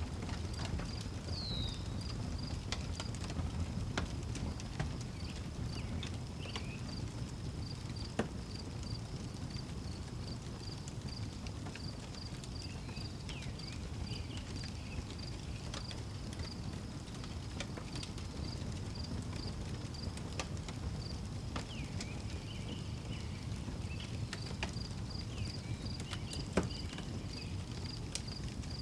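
Wood fire crackling, with scattered sharp pops (the loudest about eight seconds in and near the end) over a low rumble. A cricket chirps at a steady, even pulse throughout, and a few short bird chirps come and go.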